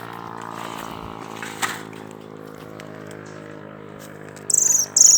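A steady low mechanical hum with a single short knock about a second and a half in; near the end, loud, shrill chirps begin, repeating about three times a second.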